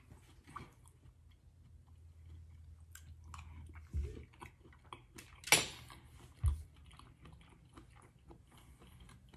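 Close-up chewing of a mouthful of potato, sausage and shrimp from a seafood boil, with many small wet mouth clicks. A sharp clack about five and a half seconds in is the loudest sound, with a dull thump shortly before it and another shortly after.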